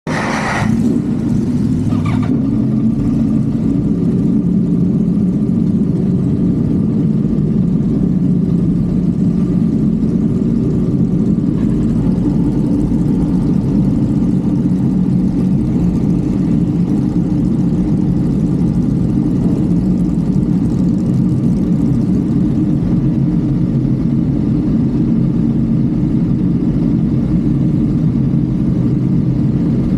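Honda Civic FD driving at a steady highway speed: a continuous engine drone mixed with road noise, holding level with no sharp revs.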